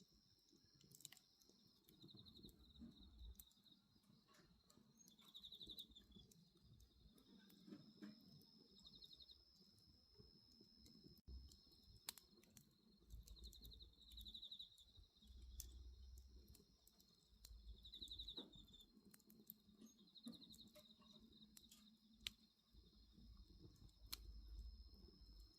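Faint wood bonfire crackling, with scattered sharp pops and soft low rumbles of burning, under crickets chirping in short pulsed trills every few seconds over a steady high insect drone.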